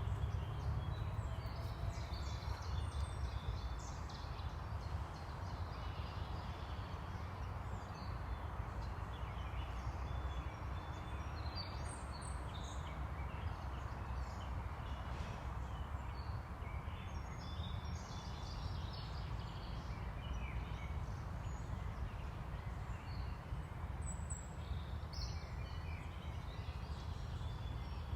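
Several small birds singing and calling, with short chirps and trills scattered throughout, over a steady low rumble.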